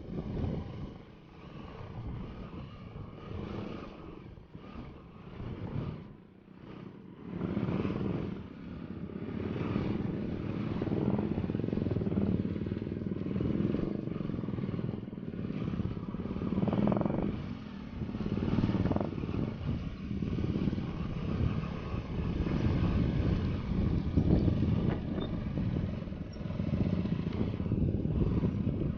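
Motorcycle engine running, softer and uneven for the first several seconds, then steady and louder from about eight seconds in.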